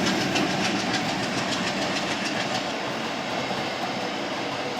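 Train passing close by, with a steady rumble and its wheels clacking over the rail joints in a quick, even rhythm. The clacking thins out after the first second or two.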